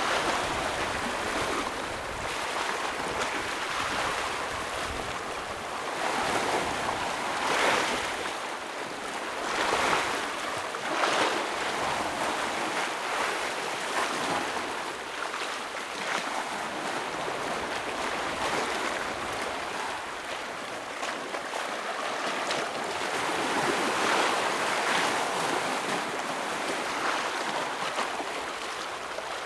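Ocean waves breaking and washing against rocks on a rocky shore: a continuous rush of surf with a louder surge every few seconds.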